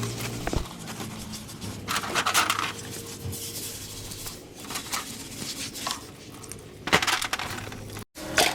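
Scattered metallic clinks and knocks with short scraping noises, over a low steady hum.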